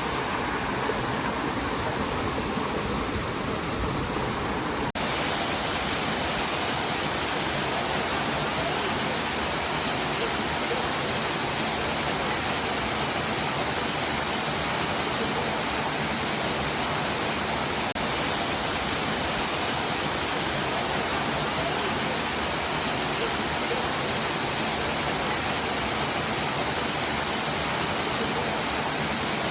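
Waterfall rushing: a steady, even noise of falling water, with abrupt breaks about five and eighteen seconds in where the recording cuts between takes.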